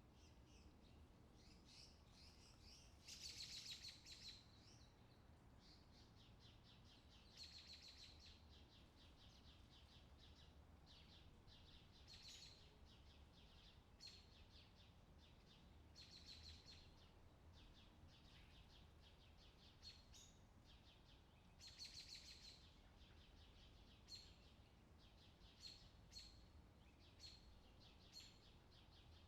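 Faint small birds calling: a buzzy high trill of about a second, repeated every four to five seconds, among short high chirps that come more often near the end, over a low steady rumble.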